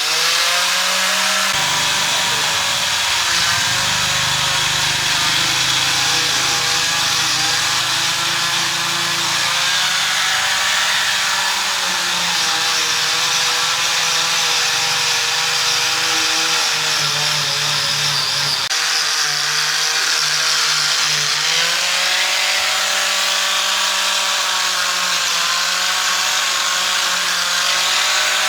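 Power tool running continuously, its motor pitch sagging and recovering twice as it is loaded, over a harsh hiss.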